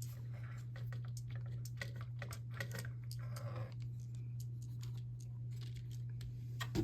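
Irregular light plastic clicks and rattles as a Lego pull-back race car is handled and pulled back, over a steady low hum.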